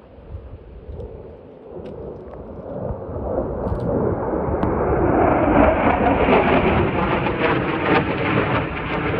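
Military jet engine noise building from faint to loud over about five seconds as a low-flying fighter jet approaches, then staying loud.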